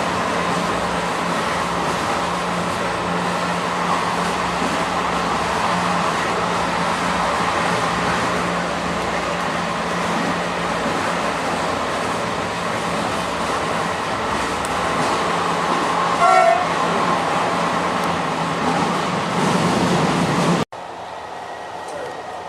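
Passenger train running with a steady rumble and hiss, and a brief horn toot about sixteen seconds in. Near the end the sound cuts off abruptly to a quieter one.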